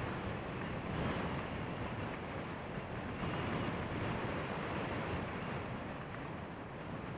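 Gale-force wind buffeting the microphone: a steady, rushing noise that swells slightly about a second in and again around three seconds.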